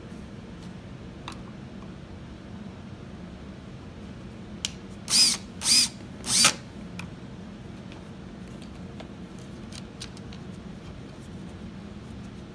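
Power drill driving screws into the plastic body of a toy ride-on motorcycle in three short bursts, about five to six and a half seconds in, with small clicks of parts and screws being handled.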